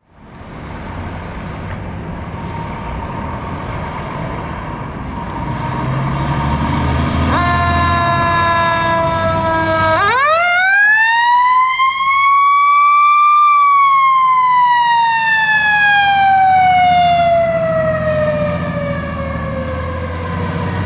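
Fire engine responding with its engine rumbling low. About seven seconds in, a steady pitched horn blast sounds for about three seconds. The siren then sweeps up steeply over about three seconds and slowly winds back down in pitch.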